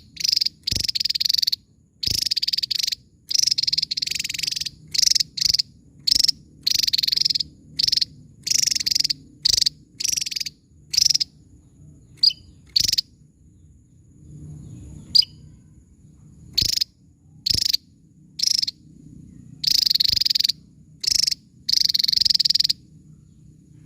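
Javan tesia singing: a long run of short, harsh, buzzy bursts repeated irregularly with brief gaps, and a couple of thin, quick whistled notes around the middle.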